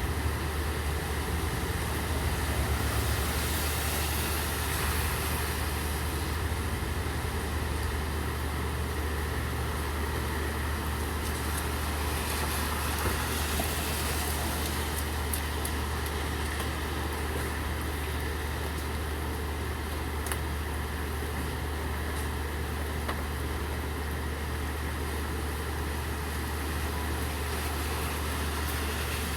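Steady rain over a constant low engine drone from an idling vehicle, with the hiss of road traffic on wet streets.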